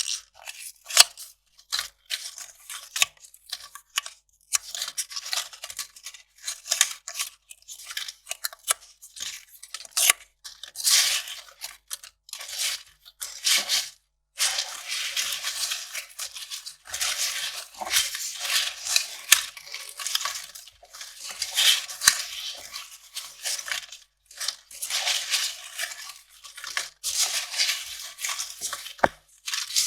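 Kraft paper being ripped and crinkled by hand, in a run of short, crackly bursts with brief pauses between them.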